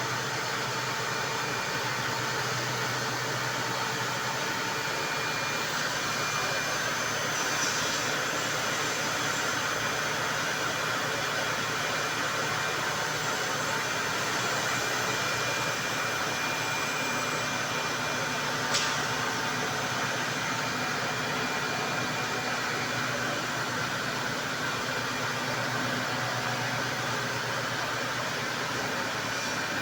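4-axis CNC wood router running steadily as it machines a wooden chair leg, a constant whirring hiss of spindle and cutting. One sharp tick about 19 seconds in.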